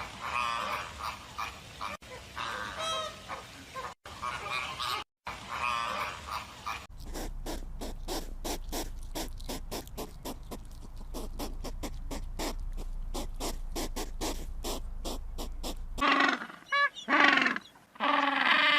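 Farm animal calls from a run of short clips. Mixed calls come first, then a long run of quick, evenly spaced calls at about four a second over a low hum, and near the end loud calls with a falling pitch.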